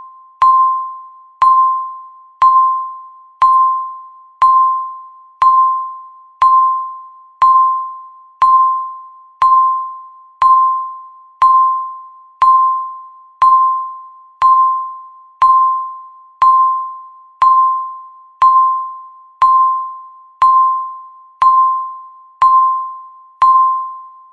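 Countdown timer beeping once every second: a single chime-like tone that strikes sharply and fades away before the next one.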